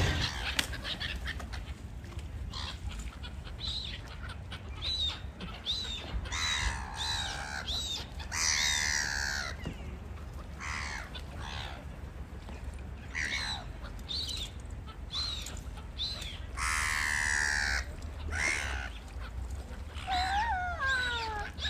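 Birds calling: short, high chirps repeating roughly once a second, several harsh calls of about a second each, and a few sliding whistled notes near the end.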